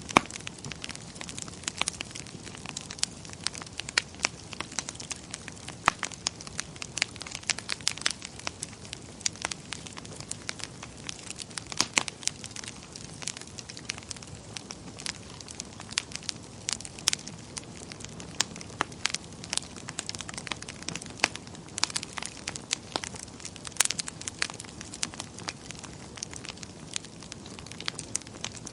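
Wood fire crackling in a fireplace: a steady low rumble of flames with frequent sharp pops and snaps at irregular intervals.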